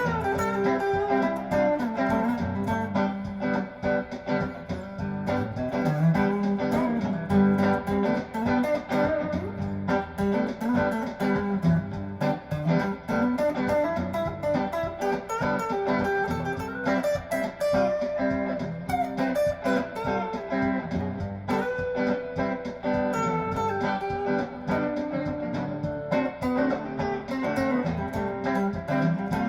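Telecaster-style electric guitar on its neck single-coil pickup, driven through an overdrive pedal and a tube amp, playing improvised lead lines over a looped backing drum beat.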